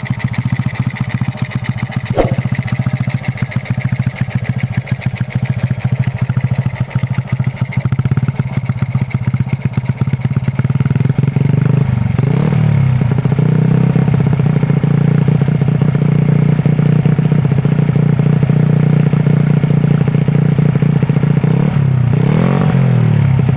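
Single-cylinder four-stroke engine of a Honda Astrea stretch-cup motorcycle running through a KUO cone-style aftermarket exhaust. It idles with a quick blip about two seconds in, is revved up around twelve seconds in and held at higher revs for about ten seconds, then drops and is blipped again near the end.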